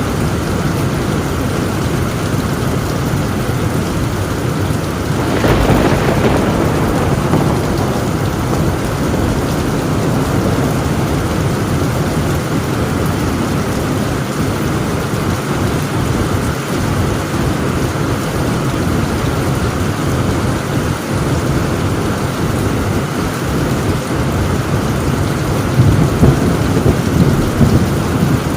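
Heavy rain pouring steadily on a tin roof, with a crack of thunder about five seconds in and a louder low rumble of thunder near the end.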